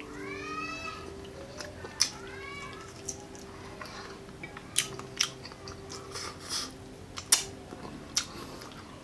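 Crunching bites and chewing of crispy breaded pork chop, sharp crunches scattered through, loudest around the middle and near the end. In the first three seconds there are high meow-like calls that rise and fall.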